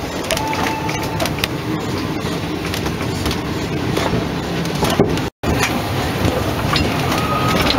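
Narrow-gauge train running, its wheels and carriage rattling steadily over the track with scattered clicks. The sound drops out for an instant about five seconds in.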